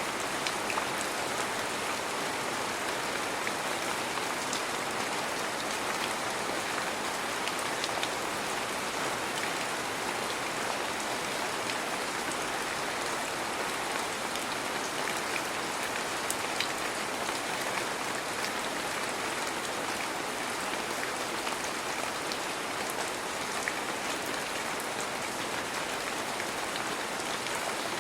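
Heavy rain falling steadily: an even, unbroken hiss with scattered faint ticks of single drops.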